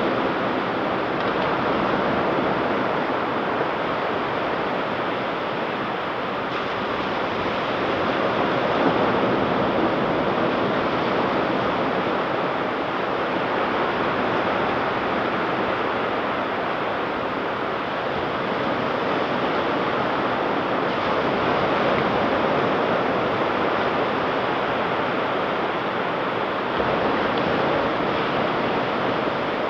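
Ocean surf: waves breaking and washing up the beach in a steady rush, swelling and easing gently every several seconds.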